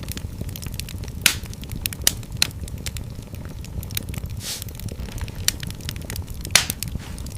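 Wood fire burning in a fireplace: irregular crackles and sharp pops over a steady low rumble, with two louder pops, one about a second in and one near the end, and a brief hiss around the middle.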